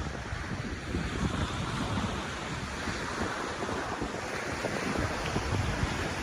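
Wind blowing and buffeting the microphone: a steady rushing noise with irregular, gusty low rumbles.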